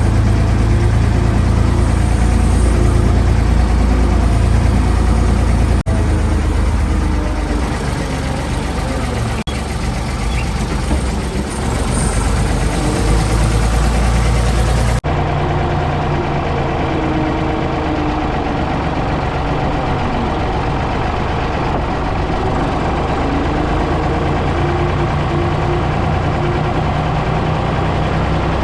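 Ford 555 backhoe loader's engine running steadily. The sound breaks off for an instant a few times, and its tone changes about halfway through, with less low rumble afterwards.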